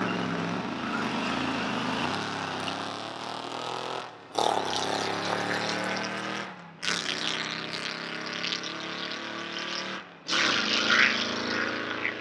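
Car engines running at a drag strip, heard in short cut-together clips that each break off abruptly, about 4, 7 and 10 seconds in.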